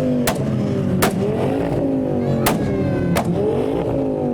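Modified Ford Focus ST engine revved hard again and again, its pitch rising and falling with each blip of the throttle. Four sharp, loud exhaust bangs crack out between the revs.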